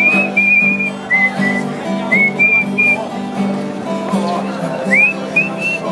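A tune whistled in short gliding phrases over acoustic guitar chords.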